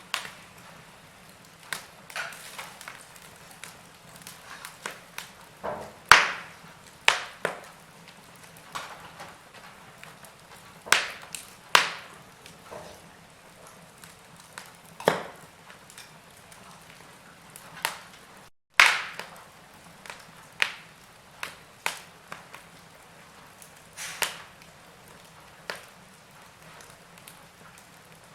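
Logs burning in a fireplace, crackling: irregular sharp pops and snaps, some much louder than others, over a faint steady hiss. The sound cuts out for a split second about two-thirds of the way through.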